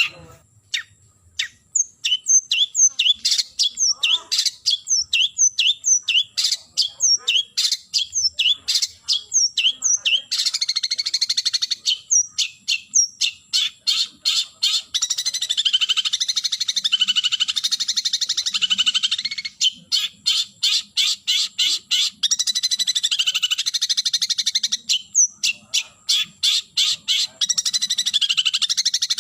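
Long-tailed shrike (cendet) giving its call to challenge a rival. It starts with a string of sharp downward-sliding notes, two to three a second. About ten seconds in it breaks into long stretches of fast, harsh chattering, with short runs of single notes between them.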